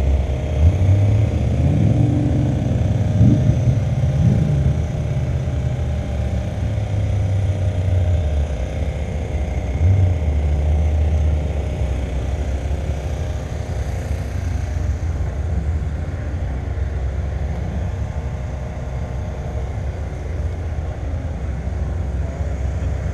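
A car engine idling with a steady low rumble, with a few light rises and falls in the first few seconds and another swell about ten seconds in, then settling lower.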